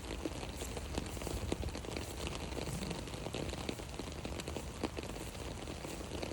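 Rain falling on an umbrella overhead: a steady hiss with many separate sharp taps of drops striking the canopy.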